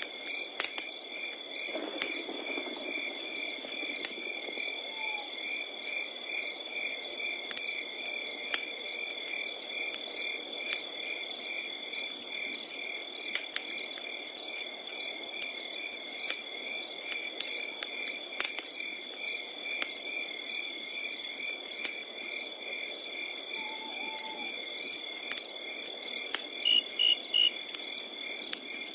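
Crickets chirping at night: a steady high trill under evenly pulsed chirps, a couple to a second, with scattered small crackles from a wood campfire. A few brief, louder high notes sound near the end.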